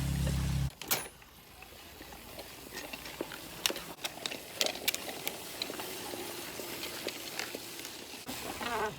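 Homemade electric rideable train's motor humming steadily, then cutting off abruptly under a second in. Scattered light clicks and knocks follow over a faint background.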